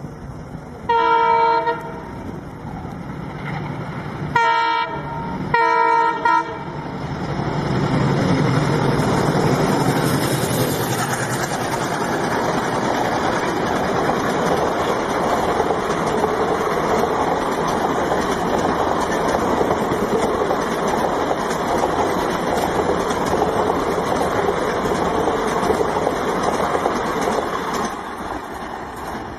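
Diesel locomotive sounding its horn three times, one blast about a second in and two shorter blasts around four and six seconds, as the express approaches at high speed. The locomotive and a long rake of passenger coaches then run through without stopping, a steady rush of wheel-on-rail noise that eases off near the end.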